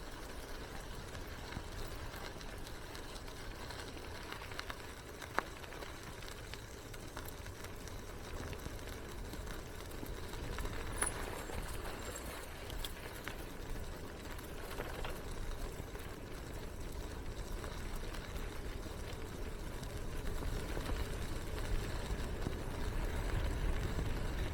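Bicycle riding: a steady rumble of tyres rolling and wind on the microphone, with a few sharp clicks and rattles from the bike, growing gradually louder near the end.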